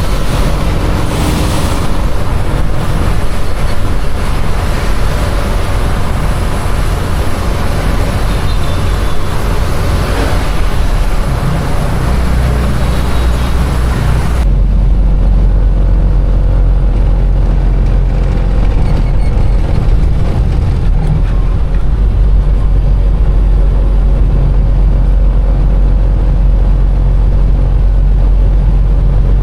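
Container truck's engine and road rumble heard inside the cab, with the hiss of heavy rain over it. About halfway the hiss cuts off suddenly, leaving a steady low rumble.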